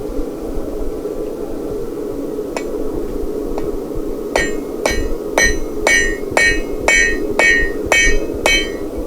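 Blacksmith's hammer forging a steel bar on an anvil: two light taps, then a run of about nine ringing blows, roughly two a second. A steady low hum runs underneath.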